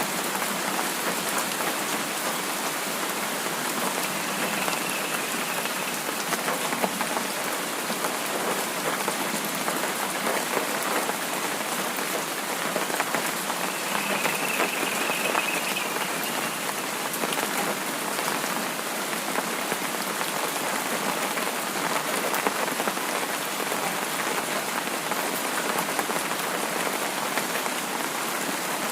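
Steady rain falling on a surface: an even hiss of rain with countless small drop hits, unchanging throughout.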